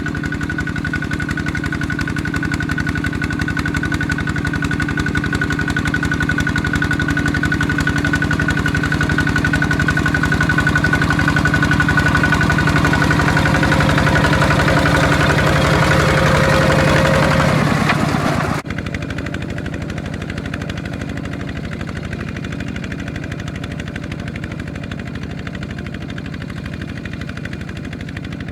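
Tractor engine running steadily with a fast, even beat, growing a little louder. About two-thirds of the way through it cuts off sharply to a quieter engine that keeps running.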